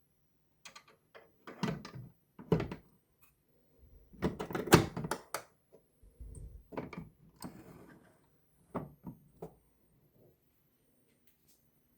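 A series of irregular knocks and clunks of hard objects being handled and set down, loudest in a cluster near the middle.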